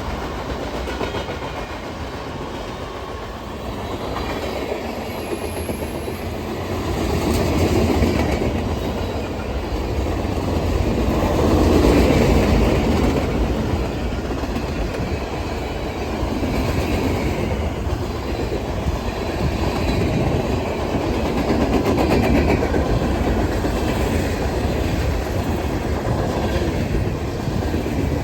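Train cars rolling past, wheels clattering over rail joints in a steady rumble that swells about a third of the way in.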